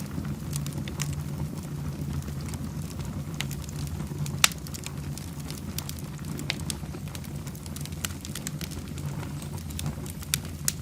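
Wood fire burning in a fireplace, crackling with scattered sharp pops over a steady low rumble. The loudest pop comes about four and a half seconds in, and another sharp one comes near the end.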